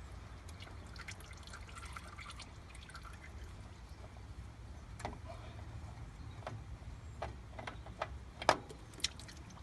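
Engine oil dripping and trickling during an oil filter change on a Kubota B20 tractor, with scattered light clicks and a few sharper ticks, the loudest near the end.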